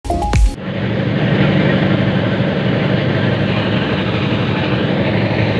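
Passenger train in motion, heard from inside the coach: a steady rumble of wheels on the track. It begins with a short burst of noise.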